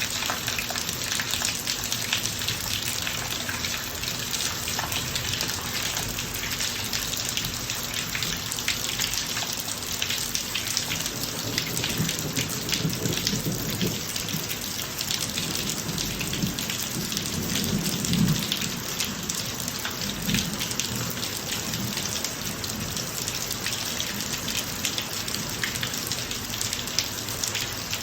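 Steady rain falling on a driveway, many drops pattering, with a low roll of thunder that builds through the middle, peaks and fades away.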